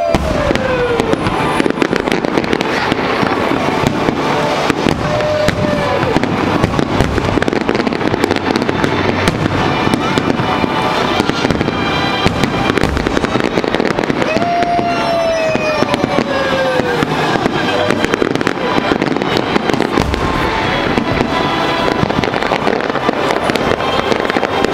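Fireworks display: dense, continuous crackling and popping of bursting shells, with a few long falling tones over it.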